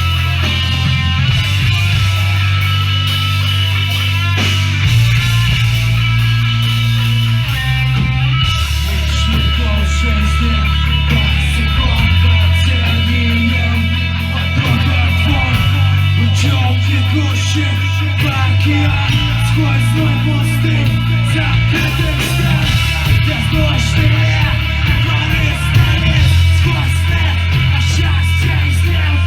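A hardcore punk band playing live and loud: distorted guitars over heavy, shifting bass notes and drums with crashing cymbals, without a break.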